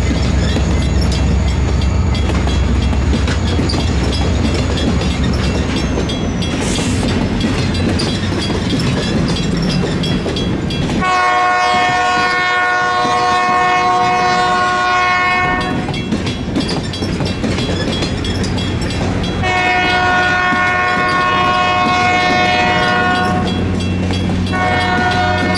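A diesel locomotive's engine rumbles close by as it passes. The passenger coaches behind it then roll past with a clickety-clack of wheels on rail joints. Meanwhile a multi-chime train horn sounds two long blasts and then a shorter one, the pattern of a grade-crossing signal.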